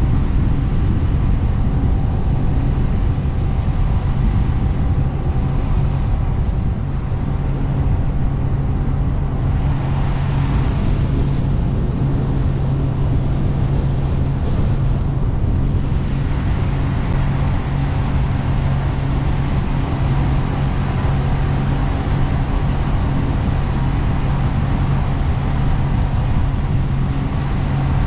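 Jet boat engine running steadily under way, with a rushing hiss of water and wind over it that grows stronger for several seconds midway.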